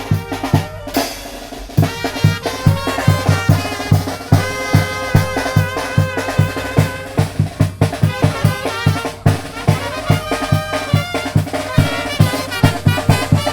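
Tamborazo band playing: a brass melody over a steady beat of bass drum (tambora) and snare. The drums drop out briefly about a second in, then carry on.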